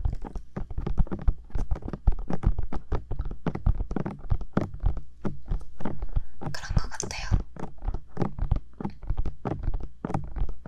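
Bare fingertips tapping rapidly on the silicone ears of a 3Dio binaural microphone: a steady stream of dull, close thuds, several a second.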